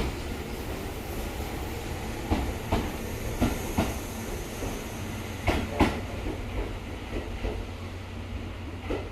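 Train moving slowly through the station, its wheels clacking over rail joints in pairs of clicks over a steady low rumble.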